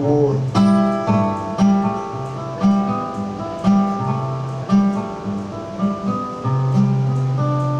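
Solo acoustic guitar playing the closing bars of a song: chords picked about once a second, then a final low chord left to ring and fade.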